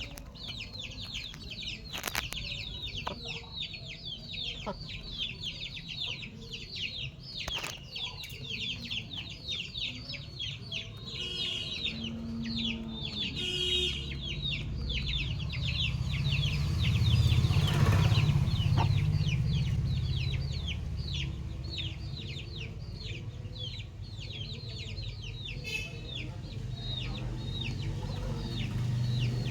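Chickens clucking and chirping, with many quick high chirps a second throughout. A low rumble swells in the middle and fades again.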